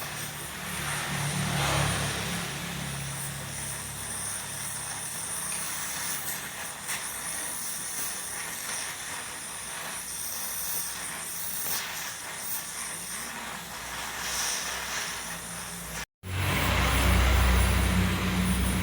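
Electric welding on a broken tap bolt, a steady hissing and crackling. After a brief break near the end, a louder low hum takes over.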